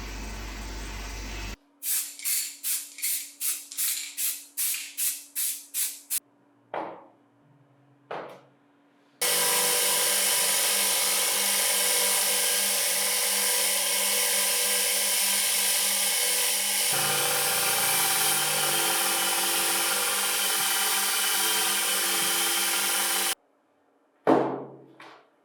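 Workshop metalworking on a bench grinder's shaft-end screw: about a dozen quick, even rubbing strokes by hand, two brief scrapes, then a power tool running steadily for about fourteen seconds, its tone changing partway before it cuts off. A single sharp clank follows near the end.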